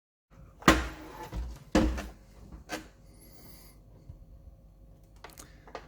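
Hard knocks and clunks from a Dyson DC39 barrel vacuum cleaner's plastic body being handled and set down: three solid knocks in the first three seconds, then a brief faint scrape and two light clicks near the end.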